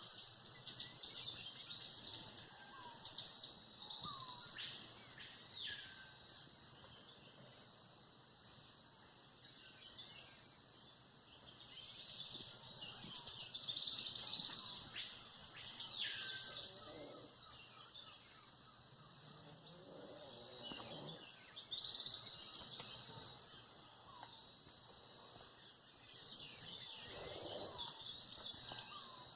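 Birds chirping and calling at dawn in several loud bursts, some calls sliding down in pitch, over a steady high-pitched insect drone.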